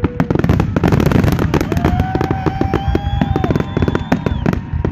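Fireworks going off close by in a rapid, dense crackle of bangs. Two long whistling fireworks sound over it in the middle, one lower and one higher, each sliding off in pitch as it ends.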